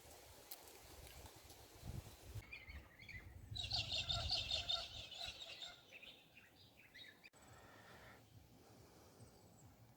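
A bird calling with a burst of rapid, chattering song that starts about two and a half seconds in and fades out after about four seconds, over a faint low rumble.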